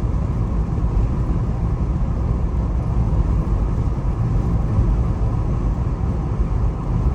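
Steady low road and engine rumble heard from inside a moving Jeep's cabin.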